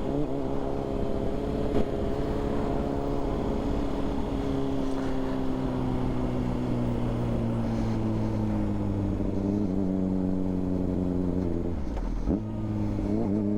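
A 2006 Honda CBR600RR's inline-four engine, fitted with a Yoshimura exhaust, heard from the rider's position while riding. The engine note sags slowly for most of the stretch, then breaks briefly near the end and comes back at higher revs.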